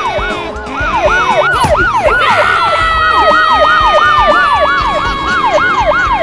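Police siren in fast yelp mode, sweeping up and down in pitch about four times a second. About two seconds in, a second steady wailing tone joins it and slides slowly lower.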